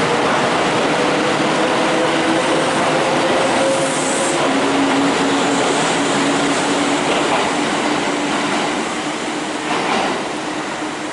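Kintetsu electric train pulling away along the platform: wheels rolling over the rails and the motors humming in steady tones that step lower as the cars go by. The sound fades over the last few seconds as the rear car draws away.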